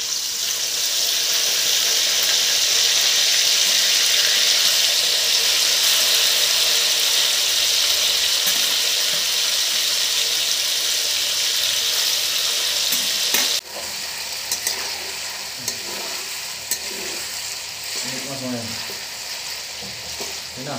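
Eel pieces sizzling as they fry in hot oil in a metal kadai, stirred with a metal spatula. The loud sizzle drops abruptly about two-thirds of the way through to a quieter sizzle with light clicks of the spatula.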